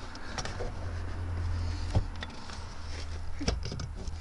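Clicks and a knock from a Ford Escort ZX2's hood being unlatched and raised, with a sharp knock about two seconds in and a few clicks near the end, over a low steady rumble.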